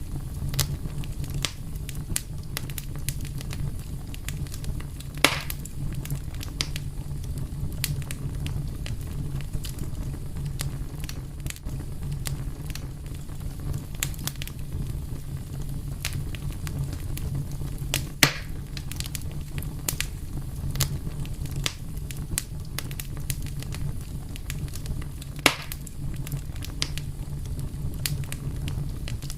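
Wood fire crackling, with a steady low rumble under frequent small snaps and a few louder pops about 5, 18 and 25 seconds in.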